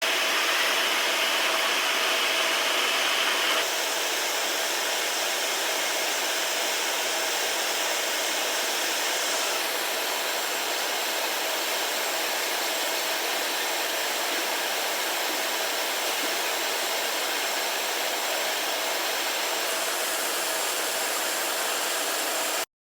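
Steady hiss of air and machinery noise, even and without rhythm, that cuts in and out abruptly and drops slightly in brightness a few seconds in.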